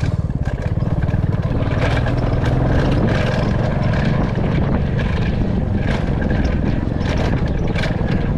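Royal Enfield Classic 350 single-cylinder engine running steadily under way, its fast low firing pulse continuous, with scattered sharp knocks and rattles over a rough road.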